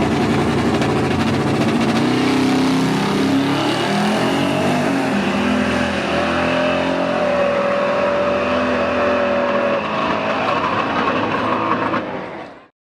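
Drag-race car engine at full throttle, its pitch rising then holding high as it accelerates. The sound cuts off abruptly near the end.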